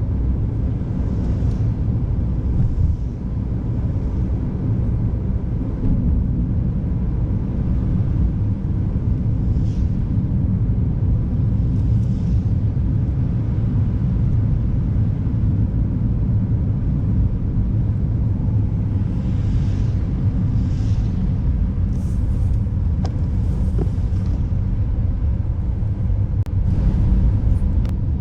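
A car driving on a wintry road: a steady low rumble of tyres and engine, with short hissing swells now and then.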